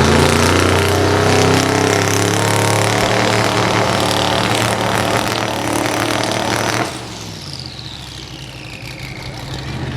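Drag-race truck engine held at high revs against the torque converter on the starting line, climbing in pitch and then held, until the driver lets off suddenly about seven seconds in and a whine falls away in pitch. The truck had crept too far into the staging beams and must back up and spool up again.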